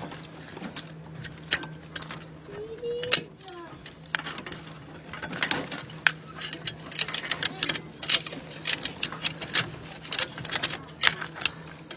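Hand tools clicking and tapping on metal under the hood as a small rusty clip is worked loose: irregular sharp clicks, more frequent in the second half, over a steady low hum, with a brief short squeak about three seconds in.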